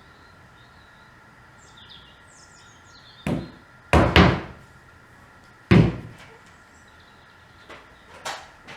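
Several sharp knocks: one a little past three seconds in, two loud ones close together about a second later, another loud one near six seconds, and a few lighter taps near the end. Birds chirp faintly in the background.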